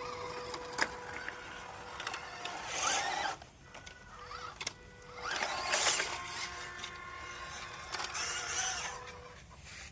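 Toy RC car's small electric motor whirring in three surges, around three, six and eight seconds in, with the pitch rising and falling as it speeds up and slows, over a steady background hum.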